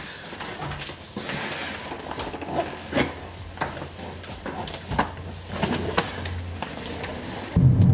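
Scattered knocks and clicks of things being handled in a small room, over a low steady hum. Near the end it cuts abruptly to the louder low rumble of a car driving.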